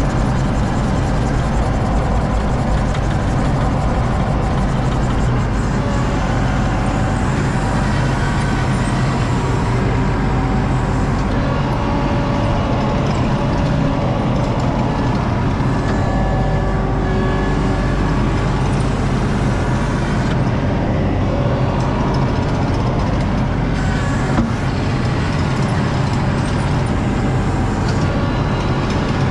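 ASV RT-40 skid steer (compact track loader) running steadily under load, its diesel engine drone joined by a wavering whine from the drive and hydraulics as it pushes and spreads asphalt millings.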